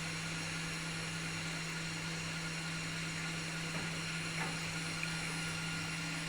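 Milk vat wash system's pump running during the hot-water-and-acid wash, a steady machine hum with a constant low tone.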